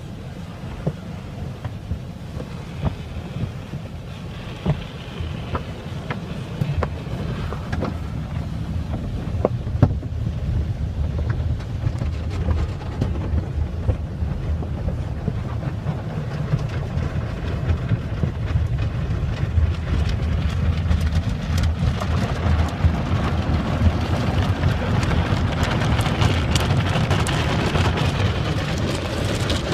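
Automatic car wash heard from inside the car: water and wash machinery beating on the body, a steady low rumble with scattered knocks. The hiss of the spray grows louder after about twenty seconds.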